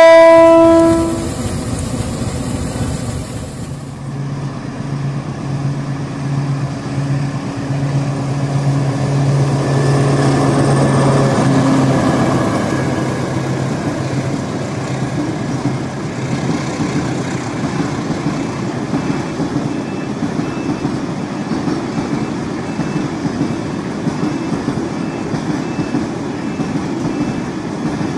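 A train horn ending about a second in. Then a diesel locomotive passes with its engine drone, followed by a long string of loaded container flat wagons rolling by with a steady rumble and clatter of wheels on the rails.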